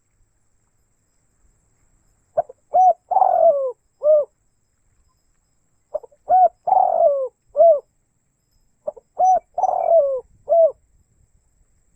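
Spotted dove (tekukur) cooing: three calls a few seconds apart, the first about two seconds in, each a quick run of short low coos around a longer drawn-out note.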